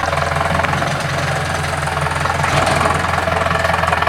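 Diesel engine of a six-wheel dump truck running steadily with a low, even hum and diesel clatter.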